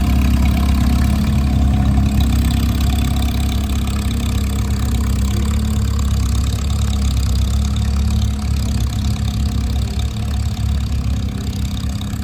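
A motorcycle engine idling steadily, with a low, even rumble.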